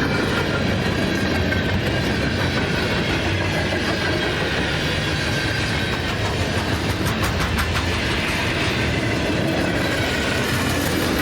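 Freight cars of a CSX manifest train rolling past: a steady rumble of wheels on rail with a faint squeal, and a quick run of wheel clicks over a rail joint about seven seconds in.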